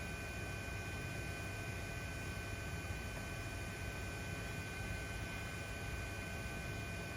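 Steady electrical hum and hiss with two steady high-pitched whines, unchanging throughout.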